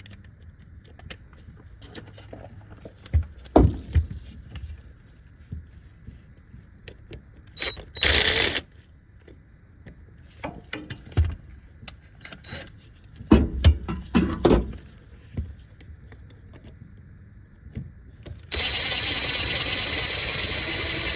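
Socket wrench and socket working on the A/C compressor mounting bolts: metal clinks, scrapes and knocks in scattered clusters. A steady rushing noise starts about three seconds before the end and holds.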